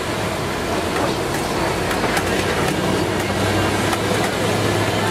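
Safari truck driving along a rough track, heard from on board: a steady engine hum with the body rattling and clicking over the bumps.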